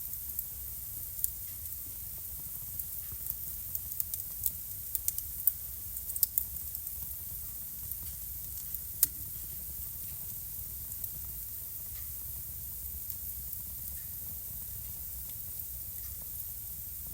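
Wood fire burning in a home fireplace: a steady soft hiss with scattered sharp crackles and pops, thickest in the first six seconds or so, and a single loud pop about nine seconds in.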